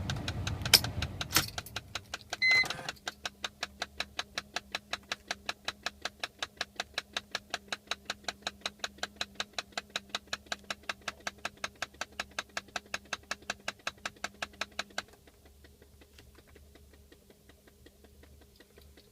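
Mercedes-Benz C320 engine running, then shut off after two sharp clicks and a short beep. A rapid, even clicking of about four a second then carries on over a low hum from the car's faulty climate-control system, and stops suddenly after about twelve seconds.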